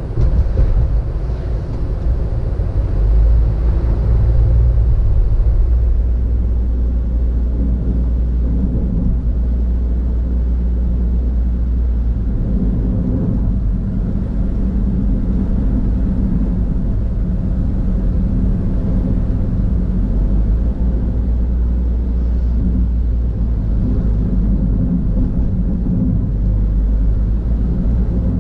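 Car driving on a road, heard from inside the cabin: a steady low rumble of engine and tyres with a constant engine hum.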